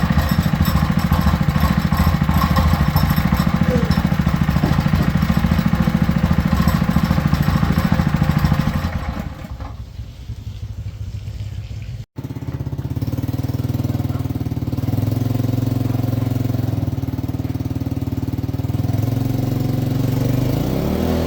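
Restored small boat engine running with a steady, rapid putter. It drops back about nine seconds in, and after a cut about twelve seconds in it runs again at a lower pitch.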